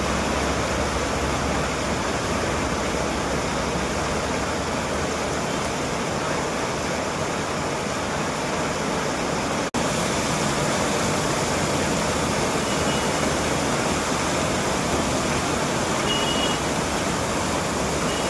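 Very heavy rain pouring down, a steady dense hiss. It cuts out for an instant about ten seconds in.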